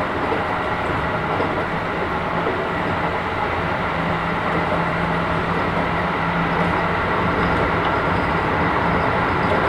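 Interior running noise of a Keisei 3000 series electric train car in motion: steady wheel-on-rail rumble and hiss with a low motor hum that grows stronger about four seconds in.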